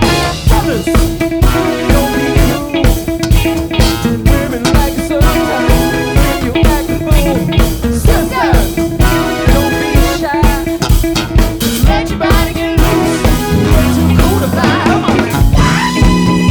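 Live funk band playing at full volume: a steady drum-kit beat with guitar and bass.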